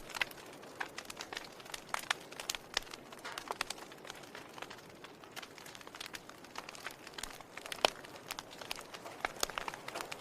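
Wood fire crackling: irregular sharp pops and snaps from the burning logs over a soft hiss, with one louder pop about eight seconds in.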